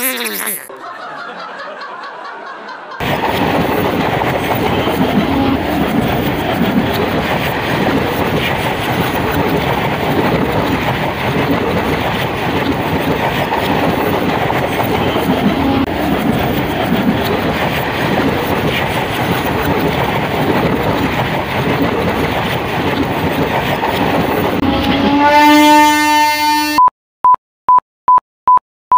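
ICF multiple-unit passenger train passing close, a steady rumble and rattle of its coaches, starting about three seconds in. Near the end a rising horn-like tone sounds, then it cuts to a series of electronic beeps, about two a second.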